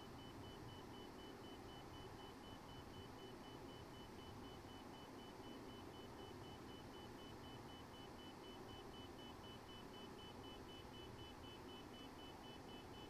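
Near silence: faint steady background noise in the cockpit of a Hawker 800XP jet in its climb. Over it a quiet, high-pitched beep repeats rapidly and evenly, and a second, slightly lower beep joins about halfway through.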